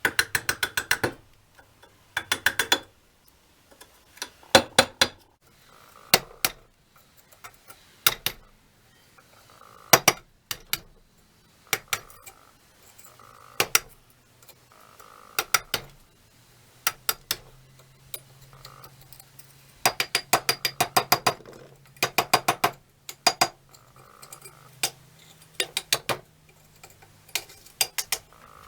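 Metal hand-tool work: short runs of rapid metallic clicks and clinks, a burst about every one to two seconds, like a ratchet or metal parts being worked by hand.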